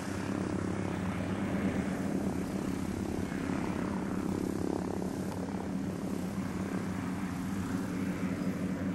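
Hughes 300 helicopter's four-cylinder piston engine and rotors running steadily in flight: a constant drone with a strong low hum.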